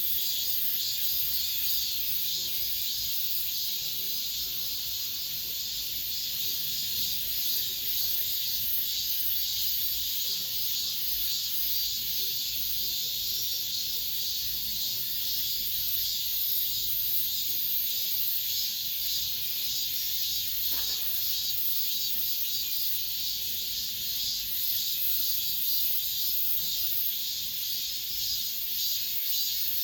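Chorus of cicadas singing: a dense, steady, high-pitched buzz with a slight pulsing shimmer.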